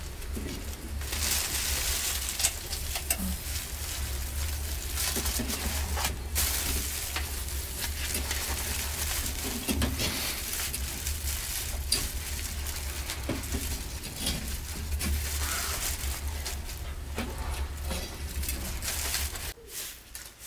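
Food sizzling and crackling in hot oil, with scattered sharp clicks over a steady low hum; the sizzle drops away suddenly near the end.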